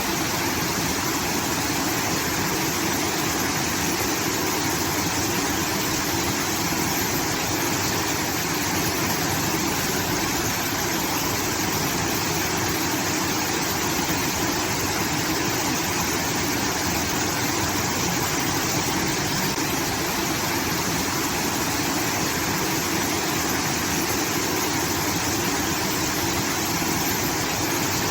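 Water rushing steadily from a rice field's irrigation system, sounding like a waterfall.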